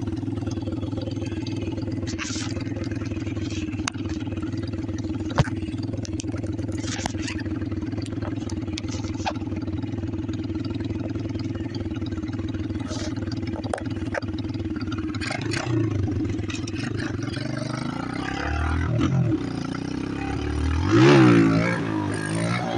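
Chinese pit bike's single-cylinder four-stroke engine idling steadily, then from about fifteen seconds in being revved and ridden, its note rising and falling several times and loudest near the end. Occasional sharp clicks sound over the idle.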